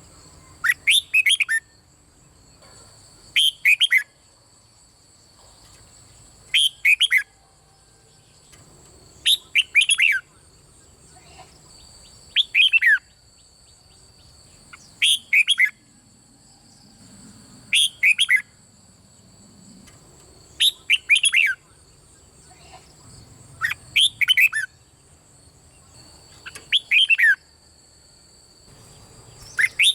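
Red-whiskered bulbul singing: a short phrase of quick, falling, whistled notes repeated about every three seconds, roughly ten times. A faint steady high-pitched whine runs underneath.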